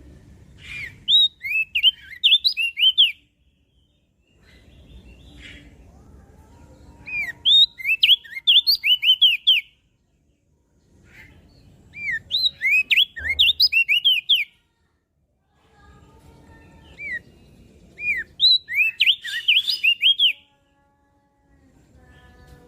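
Crested darkeye (opior jambul) singing: four bouts of rapid, sweeping chirpy notes, each lasting two to three seconds, with short pauses between them.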